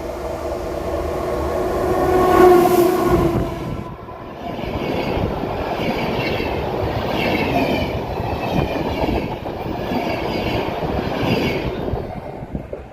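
A train passes close by. A long steady tone swells and stops a few seconds in, followed by the rhythmic clatter of wheels over the rails, which stops abruptly near the end as the last car passes.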